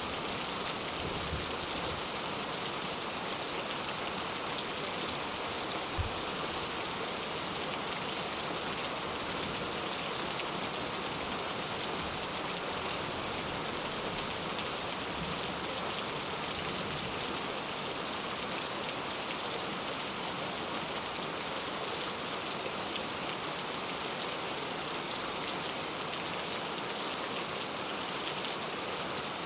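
Steady rain falling in an even, unbroken hiss of drops, with a single soft knock about six seconds in.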